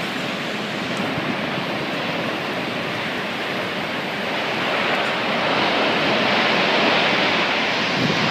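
Tornado wind and rain, a steady rushing noise that grows louder about five seconds in.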